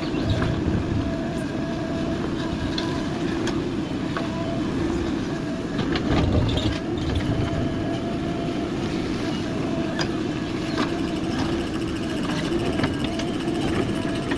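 JCB 3DX backhoe loader's diesel engine running steadily while working, with scattered sharp knocks throughout.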